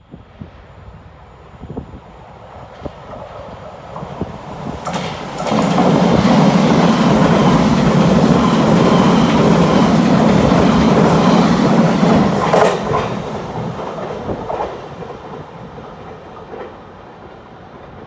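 Taiwan Railways train running past on the track, wheels clattering over the rails. It grows louder over the first few seconds, stays loud for about seven seconds, then fades away.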